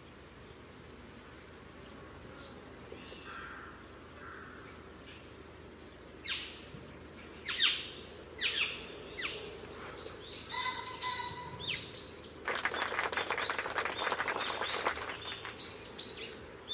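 Birds calling: faint chirps at first, then loud, repeated calls that sweep downward in pitch from about six seconds in, a few of them holding a steady whistled note. In the second half a dense crackling hiss comes in for a few seconds.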